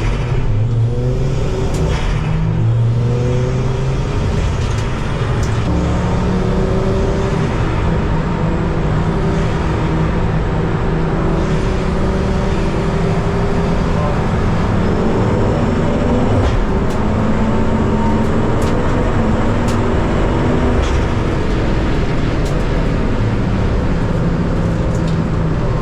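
Ford Focus ST race car's engine under hard acceleration at a race restart: the pitch climbs through the gears in the first few seconds, then it runs on at high revs with the pitch rising and falling.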